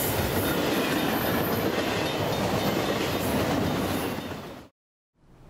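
Train rolling past with wheels clattering on the rails, loud and dense, cutting off abruptly near the end; a faint steady hiss follows.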